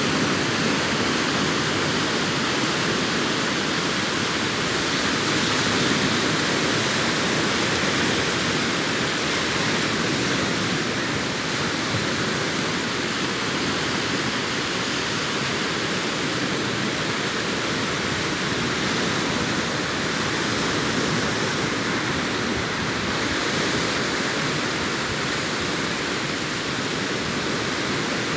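Sea surf washing on a sandy beach, a steady, even rushing of breaking waves with no distinct single breakers standing out.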